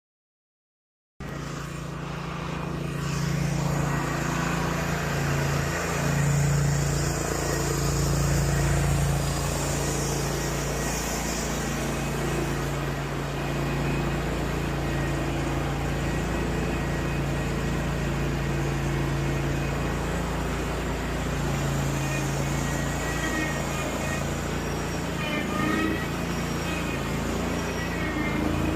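Zero-turn riding mower's engine running steadily while being driven, starting about a second in.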